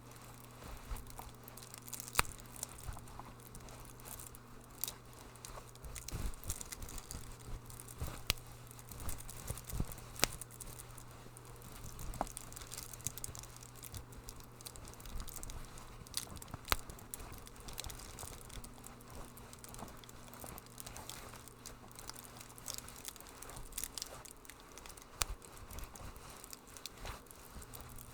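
Wood fire in a fireplace crackling, with irregular sharp pops and snaps scattered through it over a low steady hum.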